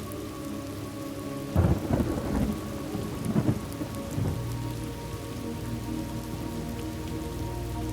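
Steady rainfall with a thunderclap about one and a half seconds in that rumbles on in several peaks for about three seconds before the rain carries on alone.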